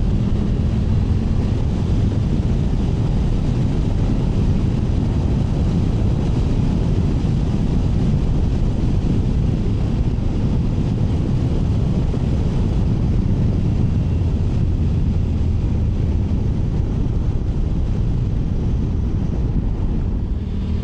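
Triumph Tiger 900 Rally Pro's three-cylinder engine running at a steady cruise, mixed with wind rush on the microphone while riding.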